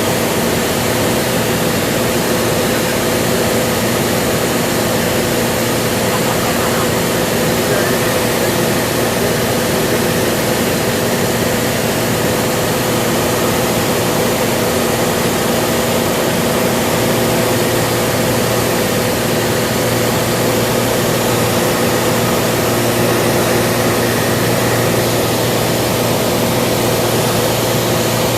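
Cessna 182's piston engine and propeller running steadily in cruise flight, a constant drone under heavy rushing air noise.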